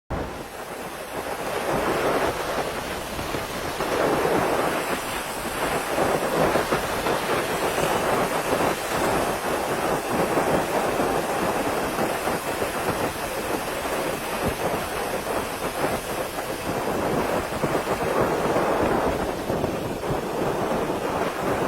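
Steady rain with rolling thunder, the rumble swelling and fading every few seconds.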